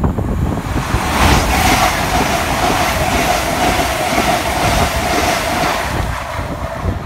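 LNER Hitachi Azuma passenger train running past close by without stopping: a loud rush of wheels on rail and air, with a steady whine held through the pass, easing off near the end as the last carriage goes by.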